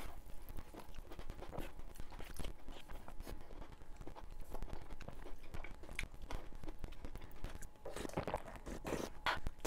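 Close-miked wet chewing of juicy fresh tomato slices, with many small mouth clicks and crackles. About eight seconds in, a louder stretch of slurping as the soda-and-tomato liquid is drunk straight from the metal tray.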